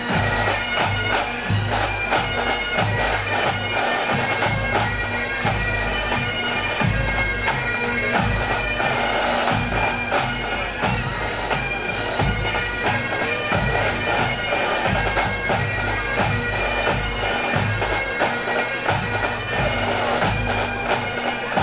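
Massed pipe bands playing a march: Highland bagpipes sound the tune over steady drones, while the drums keep up rapid sharp strokes and regular low beats.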